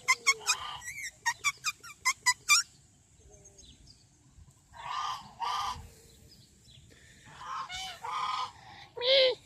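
Birds calling: a quick run of short, sharp calls, about five a second, for the first two and a half seconds. After a gap, louder honking calls come in pairs about halfway through and again near the end.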